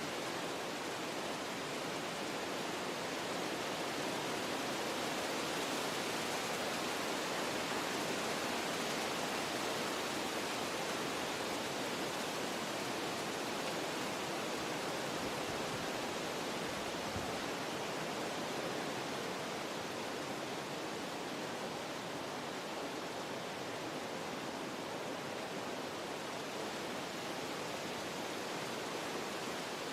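Wind blowing through forest trees, a steady rushing of leaves and branches that swells a little a few seconds in and eases slightly toward the end.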